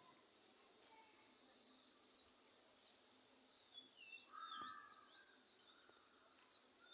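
Faint birds chirping and calling over a steady high insect trill, with the loudest call about four and a half seconds in.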